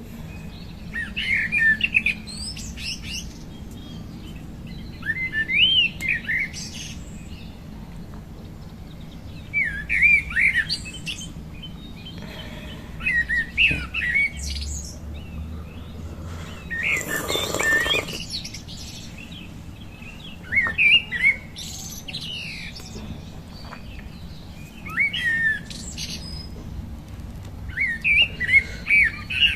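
A songbird sings short warbling, chirping phrases, repeated about every three to four seconds over a steady low hum. About halfway through, a brief rushing noise lasts a second or so.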